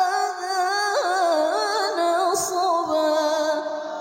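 A female Quran reciter (qariah) singing a long, melismatic tilawah phrase in the maqam style. The voice winds up and down through quick ornaments and tapers off near the end.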